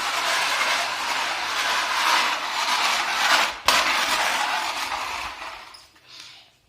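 A drink can fitted to a bicycle, rattling continuously against the turning wheel's spokes. It cuts out for an instant about three and a half seconds in, comes back, then fades away as the wheel slows near the end.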